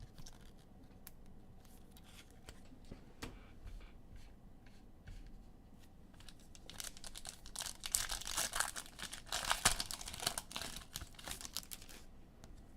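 Foil wrapper of a trading-card pack being torn open and crinkled, loudest and densest in the second half. Before that, scattered light clicks of cards being handled.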